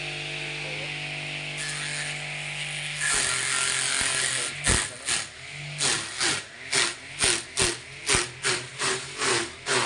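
A machine hum runs steadily, then from about four seconds in a rhythmic run of sharp strokes comes, about two a second.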